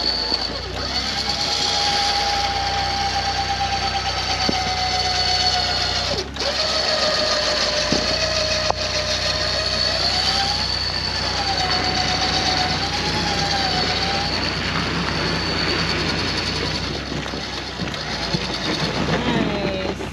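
Electric winch on a Jeep Gladiator running under load as it pulls a stuck vehicle out of mud: a steady motor whine that sags slowly in pitch, wavers up and down in the middle and dips again just before it stops.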